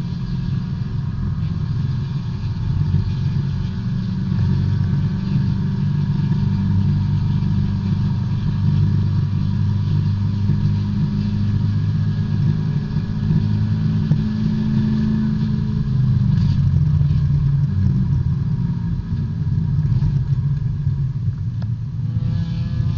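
B-Spec race car's engine at high revs, heard from inside the cockpit: steady at full throttle, dropping in pitch about sixteen seconds in, then pulling again and rising near the end.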